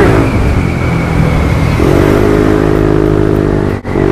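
Wind buffeting a helmet-mounted action camera's microphone on a moving Yamaha NMAX 155 scooter, with the scooter's single-cylinder engine running steadily underneath. A steady drone joins in a little before halfway, and the sound cuts out for a moment near the end.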